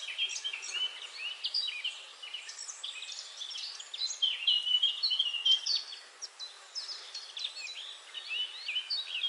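Birds chirping: a dense run of short, high chirps and quick sweeping notes overlapping one another, busiest in the middle, over a steady hiss.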